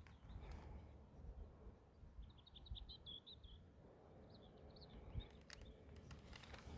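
Faint bird twittering: a rapid run of high chirps about two seconds in, then a shorter phrase a second later, over a low rumble. A few soft clicks follow near the end.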